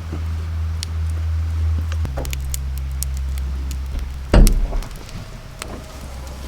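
Steady low machine hum that drops in pitch about two seconds in. Light clicks and clinks are scattered through it, and a single loud knock comes a little after four seconds.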